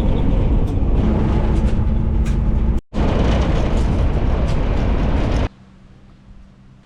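Car engine running loudly in two edited snippets, each cut off abruptly: one drops out briefly just under three seconds in, the other stops dead about five and a half seconds in, leaving a quiet background.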